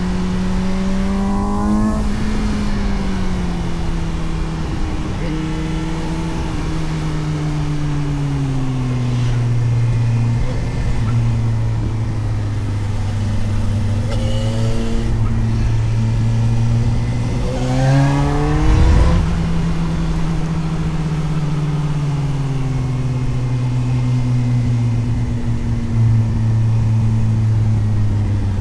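Suzuki GSX-S750's inline-four engine heard onboard while riding. The engine note rises briefly near the start, then falls away and holds steady. About two-thirds through it climbs sharply in a loud burst of acceleration, then winds slowly down again.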